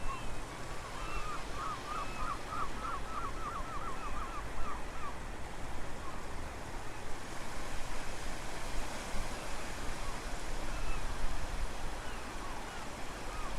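Steady wind and surf noise, with a low rumble of wind on the microphone. About a second in, a bird calls in a quick run of about ten short notes, and a few faint chirps come near the end.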